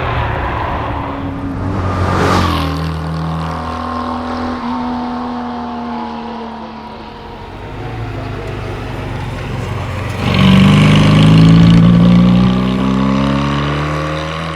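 1961 Steyr Puch TR Europa's air-cooled flat-twin engine at speed on a rally stage. Engine pitch sags slowly as the car eases off, then about ten seconds in it gets much louder and climbs hard under acceleration.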